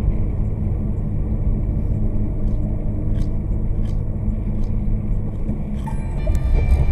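Steady low rumble of a car driving, with a few faint clicks; some steady tones come in near the end.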